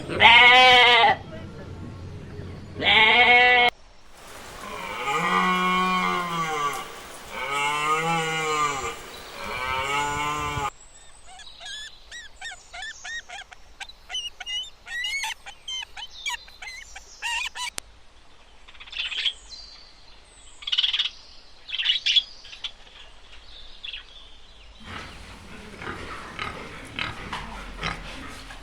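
A series of different animal calls one after another: two short loud calls, then several long drawn-out calls that rise and fall, then scattered short chirps, and near the end a quick run of short grunt-like sounds.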